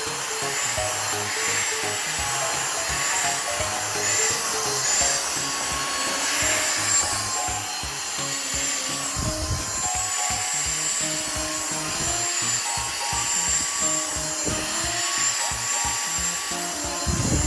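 Vacuum cleaner running with a steady motor whine and hiss that wavers slightly in pitch as the nozzle works over a corgi's coat. Background music with stepped notes plays throughout.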